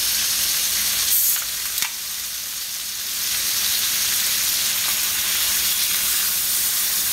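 Chicken wings with garlic and lemon slices sizzling steadily in hot oil in a stainless skillet. About a second in there is a brief sharp hiss and a click, the sound of a soda can's pull tab being opened.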